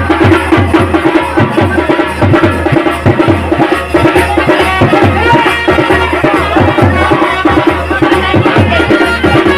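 Loud folk band music: fast, steady drumming with a melody held over it.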